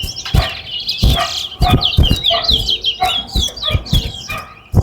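Caged towa-towa (chestnut-bellied seed finch) singing a fast run of short, falling whistled notes, a competition song in a bird race where each song is counted. Scattered low thumps come through underneath.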